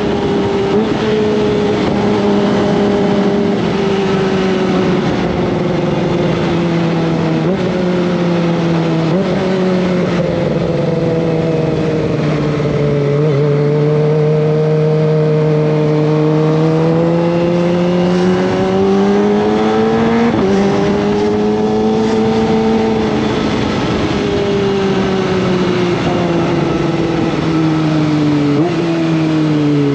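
Kawasaki ZX-25R's 249 cc inline-four engine running under way. Its pitch sinks slowly and rises again, with several sudden jumps in pitch along the way, typical of gear changes and throttle changes while riding.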